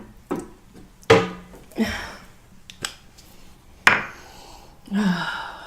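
Several separate sharp knocks and clunks on a wooden surface, the loudest about a second in and near four seconds.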